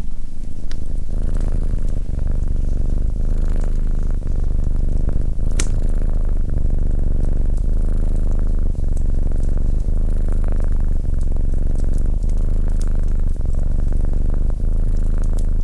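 Domestic cat purring steadily and loudly, close up, with occasional sharp clicks over it, the strongest about five and a half seconds in.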